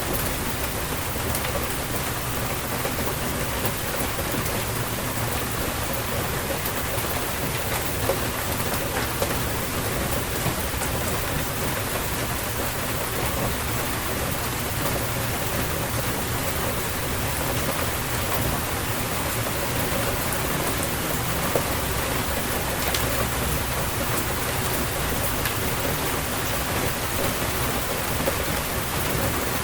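Steady rainstorm: dense rain falling on surfaces, with scattered sharper drop ticks and a low rumble underneath.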